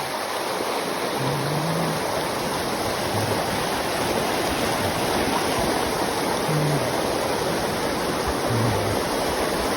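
A steady rushing noise, like running water, with a few short faint low hums.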